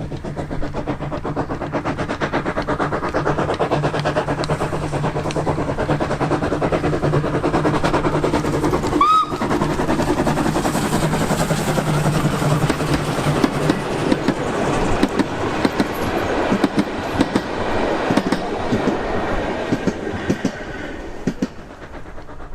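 Steam train running on the rails with a dense, rapid rhythmic clatter and a steady low hum, a brief high squeal about nine seconds in, and the sound fading near the end.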